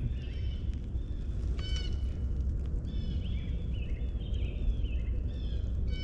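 Birds chirping and calling in short, high phrases several times, over a steady low rumble.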